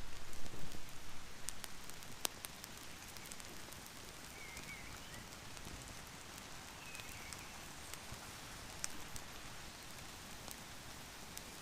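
Steady rain falling in woodland, with scattered sharp clicks over it and a few faint high chirps.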